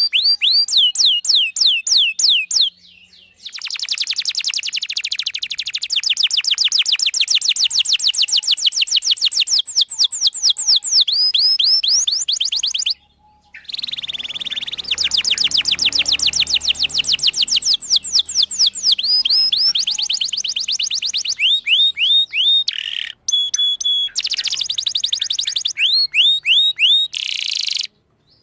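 Domestic canary in full song: long, rapid trills of repeated downward-sweeping chirps, high-pitched, breaking off briefly about three seconds in and again around thirteen seconds in before resuming.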